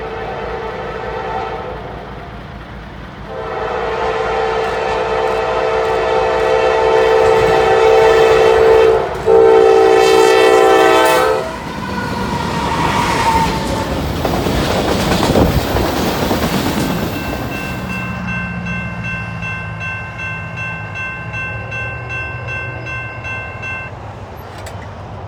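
Diesel freight locomotive horn sounding a chord, in a short blast and then two long blasts, as the train approaches. Loud engine and wheel noise follows as the locomotives pass, then the train keeps rolling by with a steady rumble and some high steady tones.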